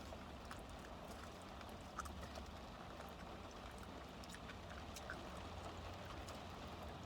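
Quiet eating sounds: faint chewing and scattered small clicks and rustles of fried chicken and its cardboard box being handled, over a low steady hum inside a parked car.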